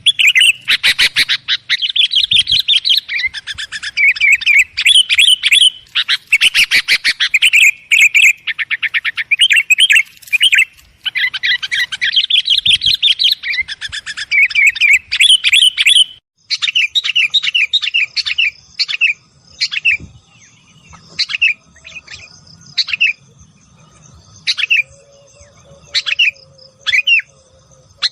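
Sooty-headed bulbuls (kutilang) calling noisily, a dense run of rapid chattering notes. About sixteen seconds in, the recording cuts abruptly to sparser, separate call phrases over a faint steady high tone.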